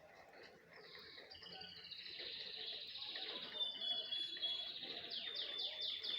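Small birds chirping and twittering, building from about a second in into dense high chatter, with a thin whistled note and a quick run of about five repeated notes near the end.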